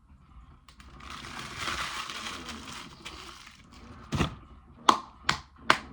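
A soft rustling hiss for about two seconds, then a quick run of sharp finger snaps near the end.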